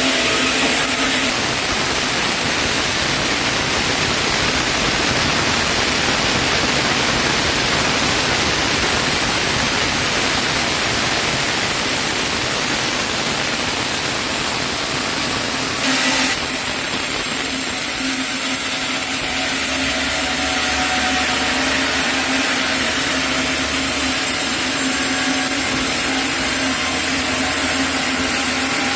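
Sawmill saw running steadily, a broad rush of noise over a steady hum, as it works through a chinaberry log. There is a brief, sharper burst of sound about 16 seconds in.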